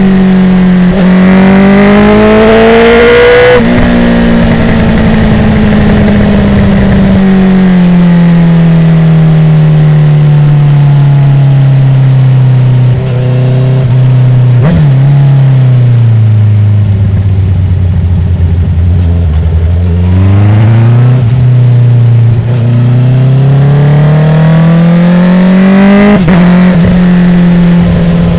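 Honda CB650R inline-four engine through an Akrapovic titanium full exhaust without dB killer, revving up through a gear and quickshifting up about three seconds in. The engine then winds down in pitch over about fifteen seconds as the bike slows, with a couple of quick gear changes along the way, before pulling up in pitch again and shifting once more near the end.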